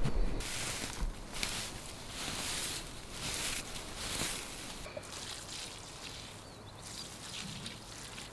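Rustling outdoors in several bursts over the first four seconds or so, then quieter, with a few faint high chirps later on.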